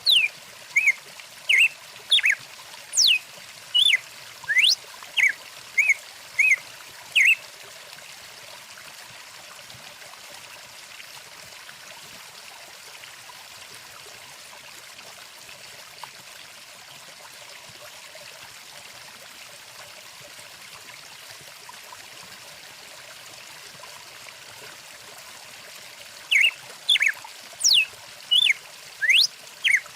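Small songbird calling in quick repeated chirps and whistled sweeps, which stop about seven seconds in and start again near the end, over the steady trickle of a stream.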